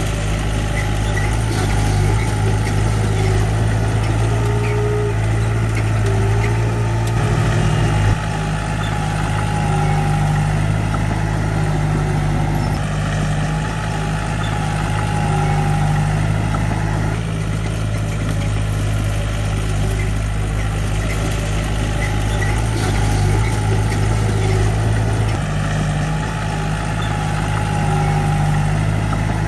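Diesel engine of heavy earthmoving machinery running steadily at a low rumble, its pitch shifting slightly a few times. There is a brief knock about eight seconds in.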